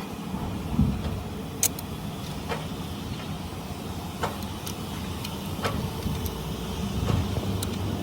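A steady low mechanical rumble, like a motor running, with a few sharp metal clinks at irregular intervals.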